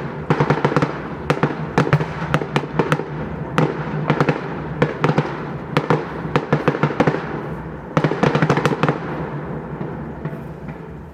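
Fireworks display: rapid clusters of sharp bangs and crackles over a continuous rumble, dense through most of the stretch, then thinning out and fading near the end.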